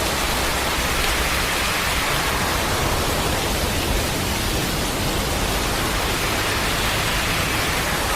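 Heavy storm downpour: a steady, dense hiss of rain pouring down, unbroken throughout.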